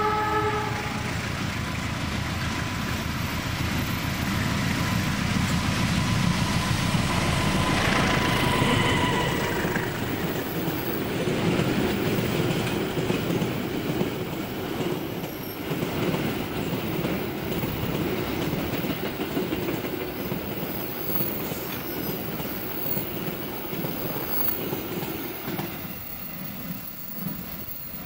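A freight train hauled by a GE CC 201 diesel-electric locomotive passes at close range. The horn chord ends just after the start, the locomotive's diesel engine runs loud, and a thin high wheel squeal from the curve rises briefly about eight seconds in. The loaded container wagons then roll by with a rhythmic clickety-clack of wheels over rail joints, and the sound drops off near the end as the train moves away.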